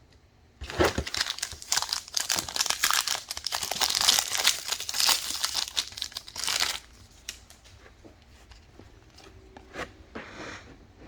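A 2021 Prizm Draft Picks card-pack wrapper being torn open and crinkled, a dense crackling rustle lasting about six seconds, followed by faint clicks and a brief rustle near the end.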